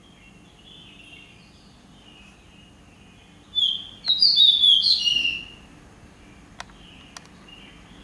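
A songbird sings a loud burst of quick, varied whistled notes, starting about three and a half seconds in and lasting nearly two seconds, over softer chirping. Two sharp clicks come near the end.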